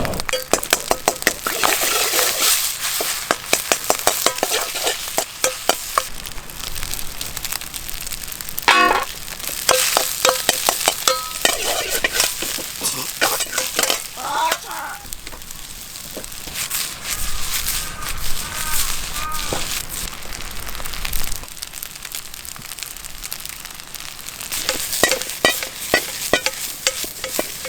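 Food frying hard in a wok over a campfire: a steady sizzle, broken by runs of quick metal-on-metal strikes and scrapes as a utensil stirs and tosses the food against the wok, with quieter stretches of plain sizzling in between.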